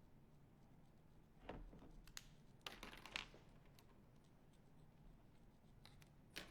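Near silence: room tone with a few faint clicks and rustles, around one and a half, two to three, and six seconds in.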